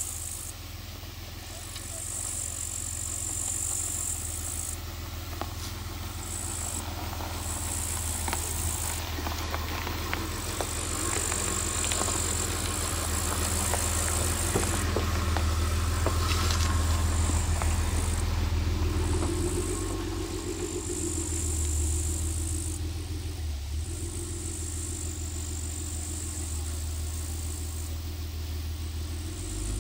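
Ford Taurus station wagon's engine running as the car drives slowly down a rutted dirt track, a steady low rumble that grows a little louder about halfway through.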